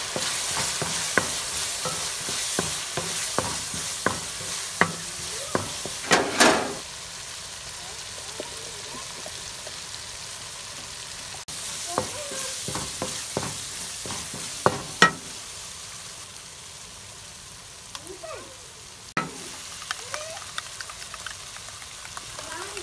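Tomato and spice masala sizzling in oil in a metal kadai while a wooden spatula stirs and scrapes it, with short clicks of the spatula against the pan. The sizzle is louder for the first several seconds, then quieter.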